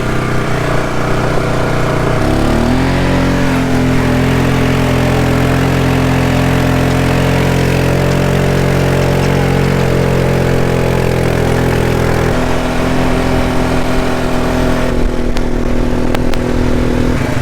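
A vehicle engine running steadily, its pitch climbing about two seconds in as it speeds up, then settling and shifting again near the end.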